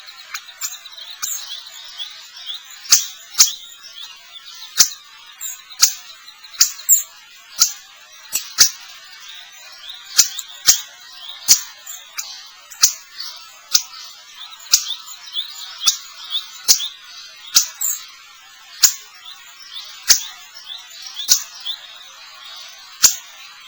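Finches calling: short high chirps over a steady twittering, with frequent sharp, irregular clicks throughout.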